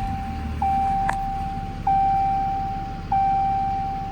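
Dashboard warning chime of a Ram 5500 ringing one steady tone over and over, each ring starting sharply and fading over just over a second, above the 6.7-litre Cummins straight-six diesel idling just after start-up. A single click about a second in.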